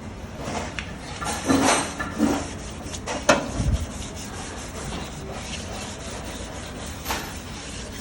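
Scrubbing and rubbing on an engine block being cleaned: uneven scraping strokes, with a sharp knock about three seconds in.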